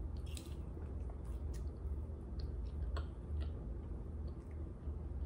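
A person biting into and chewing a honey barbecue chicken wing close to the microphone, with scattered small clicks of mouth and teeth over a steady low hum.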